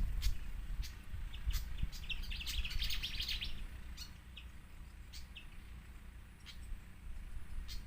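Pied fantail chirping at the nest: a quick run of high, rapid chirps about two seconds in, then a few single chirps, over a steady low rumble.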